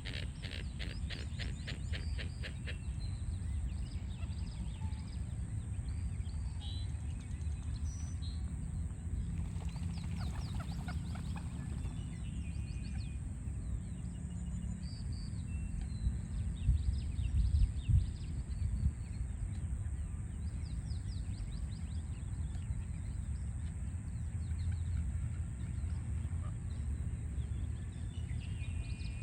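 Small birds chirping and trilling over a steady low rumble of city traffic. A quick run of repeated chirps comes at the start, and the low rumble swells louder a little past halfway.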